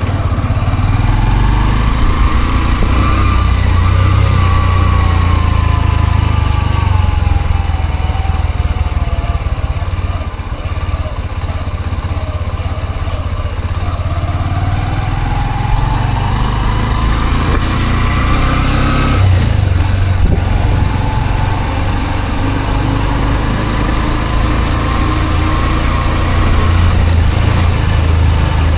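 Honda CB125F's single-cylinder engine running under way: its pitch rises, falls slowly as it eases off, climbs again, drops suddenly about two-thirds of the way through, then holds steady, over a heavy low rumble.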